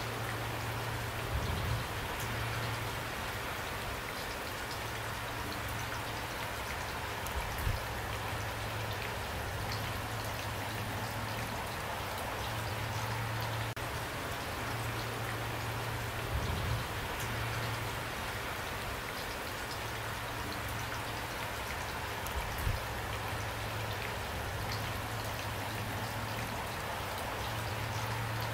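Steady rain falling, an even hiss of drops with a low hum underneath that fades in and out. A few brief low thumps stand out, about a second and a half in, near 8 s, near 16 s and near 23 s.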